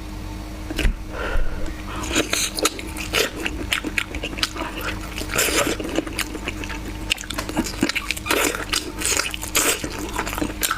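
A person biting into and chewing chicken close to the microphone, with irregular crunches and wet smacks many times a second.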